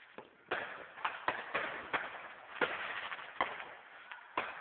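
Fireworks going off: an irregular string of about eight sharp bangs and pops, with a hissing crackle between them that is thickest in the middle.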